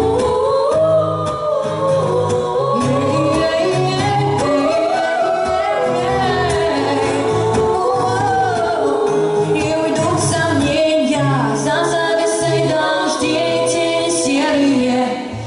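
Female voices singing a song with instrumental accompaniment and a steady low bass line, with a brief dip near the end.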